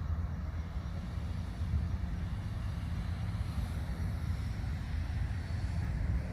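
A steady, low rumbling noise, with a faint hiss above it.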